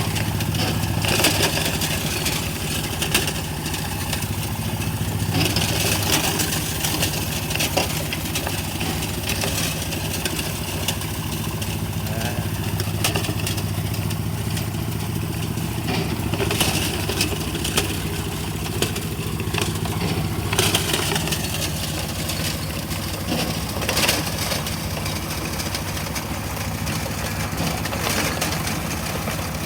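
Engine-driven stone crusher running with a steady low hum while rocks crack and rattle through it, with louder stretches of rock breaking every few seconds.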